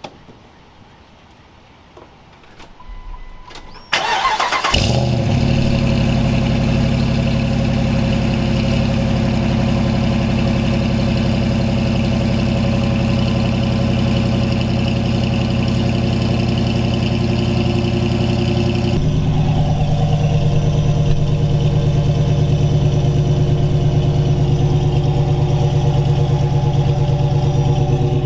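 A Jeep's engine being started: a brief crank, then it catches about four seconds in and settles into a steady run. About fifteen seconds later the engine note changes and holds steady again.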